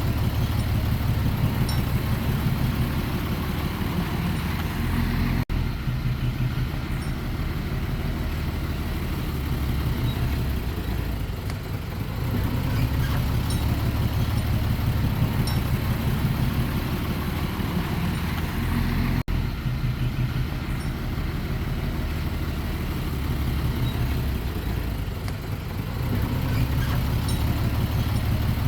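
Heavy diesel engine of earthmoving machinery running and working, its level rising and easing off in turn, with two momentary breaks in the sound about five and nineteen seconds in.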